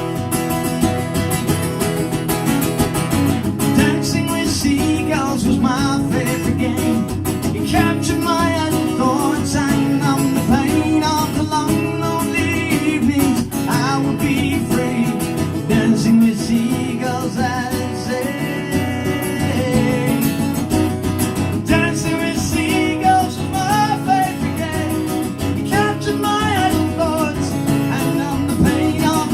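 Live folk song played on acoustic guitar, with a melodic line moving above the accompaniment.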